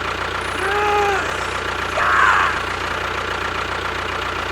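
A small motor runs steadily with a constant hum. About a second in comes a short pitched sound that rises and falls, and a louder one just after two seconds.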